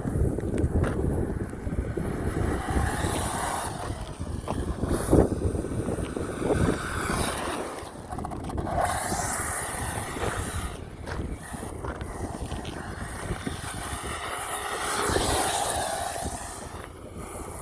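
Traxxas Slash VXL 4x4 RC truck running, its brushless motor and gear drivetrain whining and swelling up and down several times as it speeds up and slows, over rough tyre and wind noise on the microphone.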